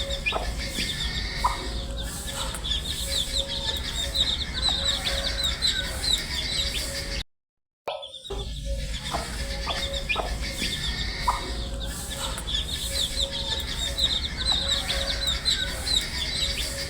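A flock of baby chicks peeping: many quick, high chirps overlapping, over a steady low hum. About seven seconds in the sound drops out for half a second, then the same recording starts over.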